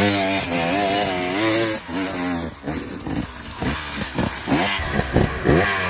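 Stark Varg electric dirt bike's motor whining in surges, its pitch rising and falling again and again as the rider works the throttle on a steep climb the bike can't make, ending up sliding back down.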